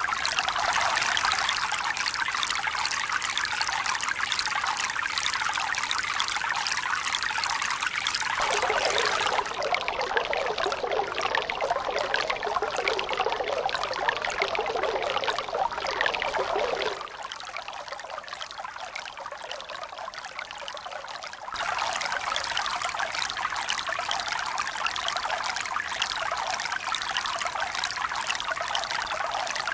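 Steady running water, a continuous splashing rush like a stream or pouring water. It changes abruptly a few times, going quieter and thinner for a few seconds past the middle before returning full.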